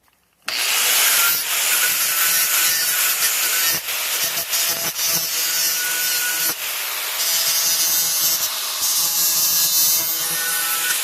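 Angle grinder running against galvanized steel pipe, starting about half a second in and going on steadily, with a few brief dips in level.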